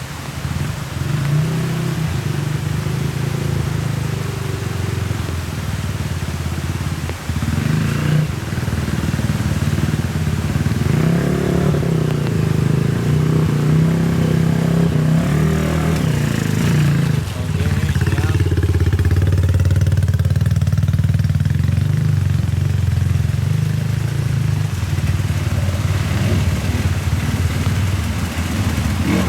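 Motorcycle engine running while riding, holding a steady note. The sound dips briefly about seven seconds in, and from about seventeen seconds in the engine settles on a lower, louder note.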